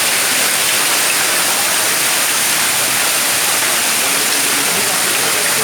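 Hailstorm with heavy rain pouring down: a steady, dense hiss.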